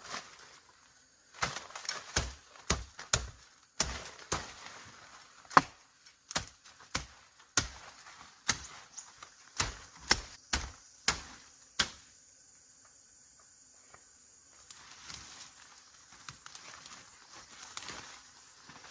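A hand tool chopping with about twenty sharp strikes, roughly two a second, that stop about twelve seconds in, followed by soft rustling.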